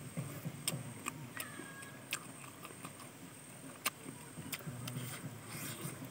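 Close-miked chewing of fried chicken: a low, irregular rhythmic chewing with many short sharp clicks of lips, teeth and crisp meat being torn and eaten.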